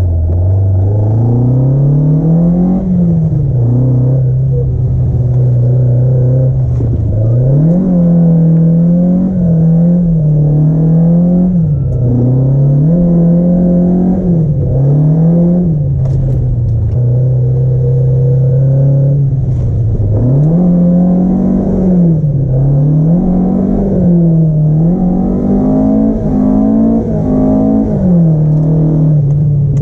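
Car engine running hard under repeated throttle, its pitch climbing and dropping every second or two as the revs go up and down, as in drift driving.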